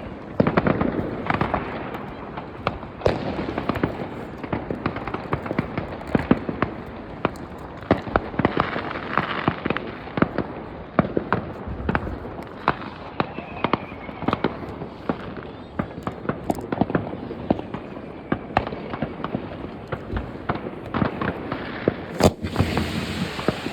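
Many fireworks going off at once: a dense, continuous crackle of firecrackers and rocket bangs, with sharp reports several times a second and one especially loud bang near the end.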